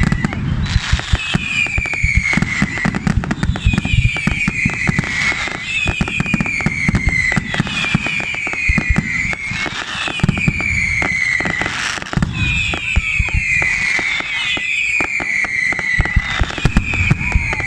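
Fireworks going off: a dense crackle of bangs and pops, with a high descending whistle repeating about every second and a half.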